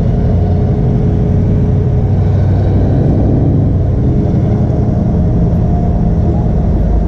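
Twin-turbocharged, carbureted small-block Chevy V8 in a Chevy Vega idling steadily.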